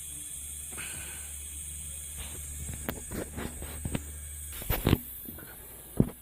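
A home-made smoke tester running with a steady hum and a hiss of air, among clicks and knocks of handling. The hum cuts off about four and a half seconds in, followed by a loud knock, and there is another sharp knock near the end.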